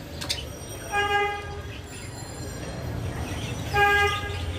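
Two short, steady horn toots of one pitch, about three seconds apart, over a constant low rumble.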